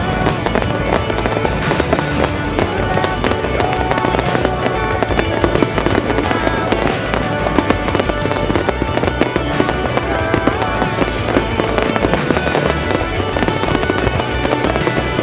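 Fireworks going off in rapid bangs and crackles, mixed with loud music with a steady beat.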